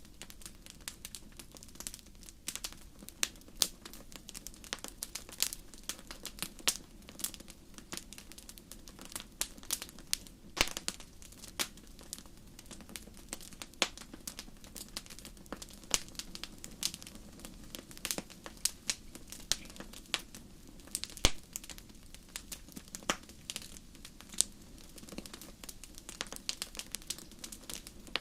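Wood campfire crackling, with many irregular sharp pops and snaps over a steady low background of burning.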